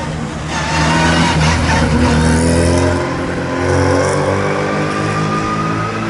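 Historic rally car's engine accelerating hard, its pitch rising steadily as it pulls through the revs.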